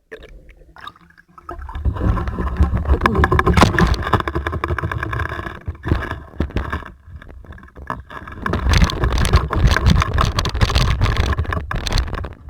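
Small fishing boat under way, its engine running with a low rumble and loud rushing noise, in two long stretches with a brief drop in between.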